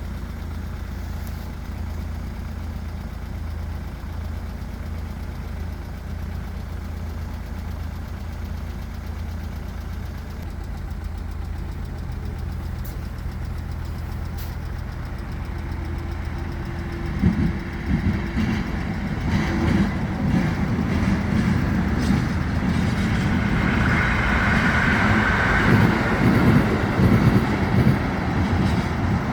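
A vehicle engine idles steadily. A little over halfway in, a train comes past: a louder rumble with irregular wheel knocks that builds toward the end.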